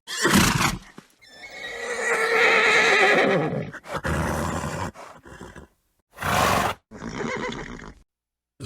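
Horse neighing: a short blast, then one long wavering whinny lasting about two and a half seconds, followed by several shorter noisy blows and snorts with gaps of silence between them.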